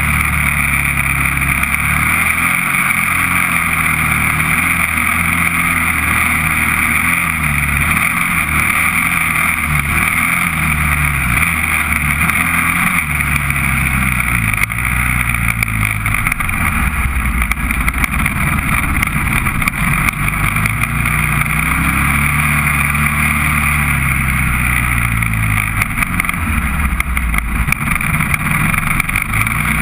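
Honda TRX400EX ATV's single-cylinder four-stroke engine running under way, its pitch climbing and dropping again and again as the rider accelerates, shifts and backs off.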